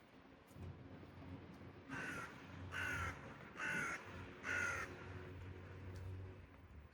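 A crow cawing four times in a row, harsh calls a little under a second apart, over a low steady hum.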